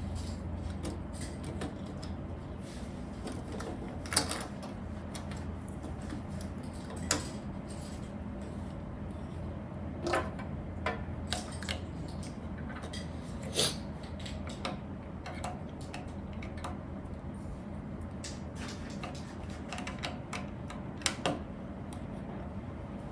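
Plastic Lego pieces being handled and pressed into place, with about a dozen scattered sharp clicks and light knocks over a steady low hum.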